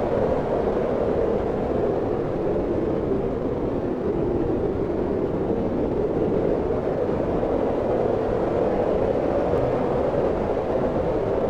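Steady wind blowing, a low rushing noise that swells and eases slightly every few seconds without gusts or breaks.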